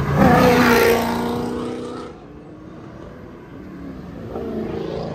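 A car engine accelerating past the roadside, loudest in the first second and fading away about two seconds in. A second car's engine rises near the end.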